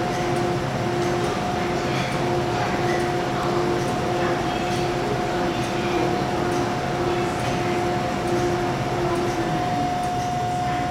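MTR K-Train (K-stock) on the Tseung Kwan O Line arriving at an underground platform, running with a steady rumble and a steady tone. A short beep repeats slightly faster than once a second and stops about nine seconds in.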